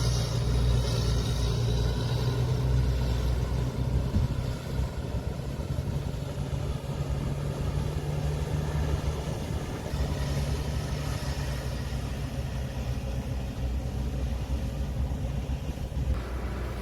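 Diesel engine of heavy earthmoving machinery running steadily, a low drone that drops slightly about four seconds in.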